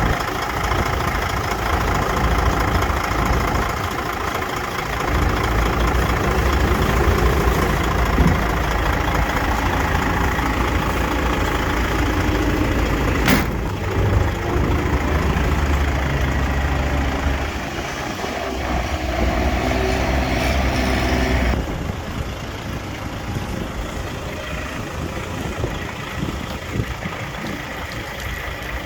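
DAF CF85.460 truck's diesel engine running steadily, with a sharp click about halfway through. The sound drops to a quieter level about three quarters of the way in.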